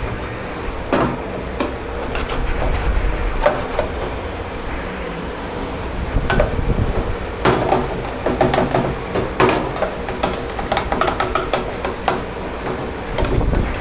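Dishes, pots and utensils clattering and knocking as they are handled in a dish pit, in irregular sharp knocks and clinks over a steady hum.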